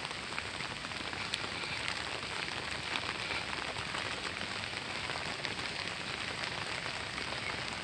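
Steady rain falling on wet paving: an even hiss with scattered ticks of individual drops.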